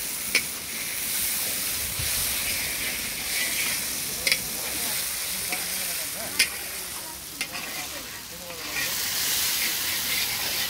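Onions, tomatoes and ground spices sizzling steadily in a large black kadai as a metal spatula stirs them, with the spatula clinking against the pan about four times.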